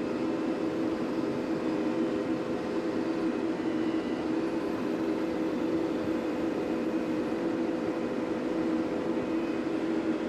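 TYM T574 tractor's diesel engine running steadily at an even pitch as the tractor moves to the next stumps.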